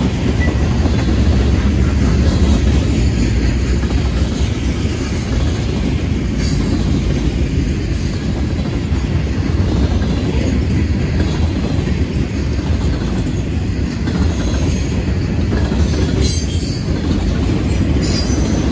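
Freight train rolling past, a loud steady rumble of wheels on rail. A few short high-pitched sounds come through about six seconds in and again near the end.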